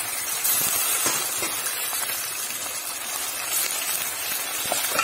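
Hot oil sizzling steadily in a pot of browned onions as raw beef mince is added for keema, with a few faint knocks of the colander and spoon.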